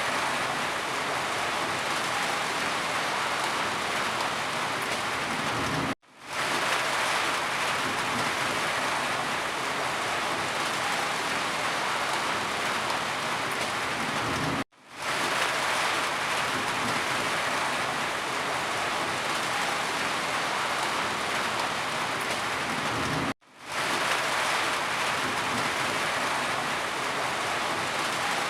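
Steady heavy rain falling. The sound cuts out abruptly three times, about every nine seconds, and fades back in within half a second each time.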